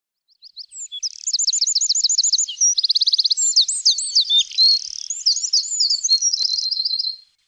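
Songbirds singing: fast runs of high, repeated chirps and trills with some sweeping notes, starting about half a second in and stopping shortly before the end.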